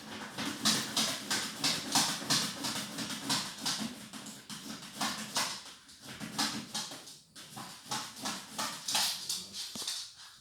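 Pug eating dry dog food: rapid, irregular crunching chews, several a second.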